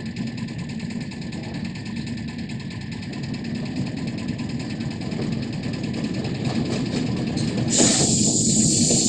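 Diesel locomotive hauling a loaded freight train, its engine rumbling and growing steadily louder as it approaches. About eight seconds in, a sudden loud hiss sets in and holds.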